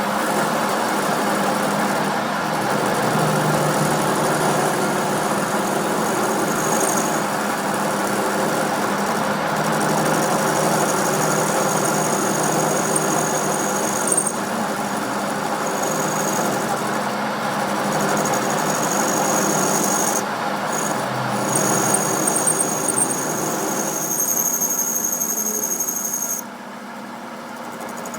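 A machine running steadily with a high squeal over its hum, dropping sharply in level near the end.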